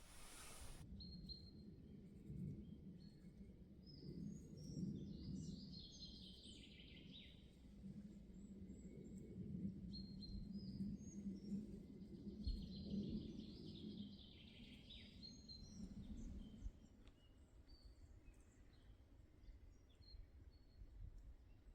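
Faint morning songbirds in a beech forest: scattered high chirps from several birds, with two longer song phrases that fall in pitch, one about four seconds in and one around eleven seconds, over a low steady rumble.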